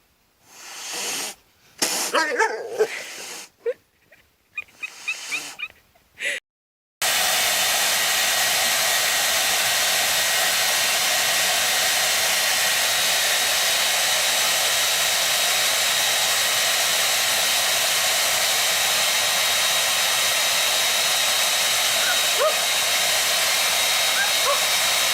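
A few short animal whines and cries with small noises between them. About seven seconds in, a loud, steady rushing hiss starts abruptly and holds unchanged.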